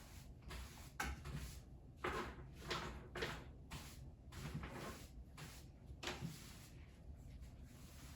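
A handful of short knocks and scrapes from household things being handled during tidying, about half a dozen separate bumps and swishes.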